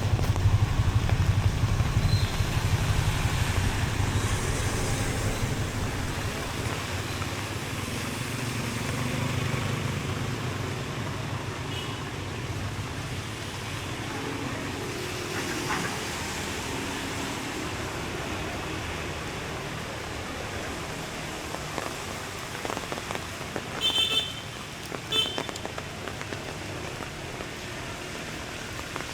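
A motor vehicle passing close by in the rain, its low rumble loudest at the start and fading over the first several seconds, then a steady hiss of rain and traffic. Near the end come two short high-pitched beeps about a second apart.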